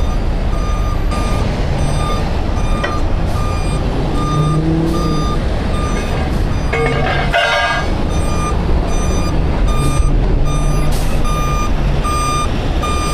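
Heavy truck's reversing alarm beeping steadily about twice a second over the low rumble of its running diesel engine, with a short harsher sound about seven seconds in.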